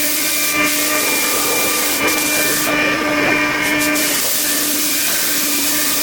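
5-axis CNC machine running: a steady hiss of rushing air with a machine whine held at a few steady pitches. The hiss thins out for about a second near the middle.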